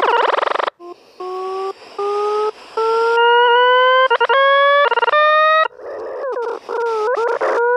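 A dog howling: several long, drawn-out howls, each rising slowly in pitch, with a wavering howl near the end.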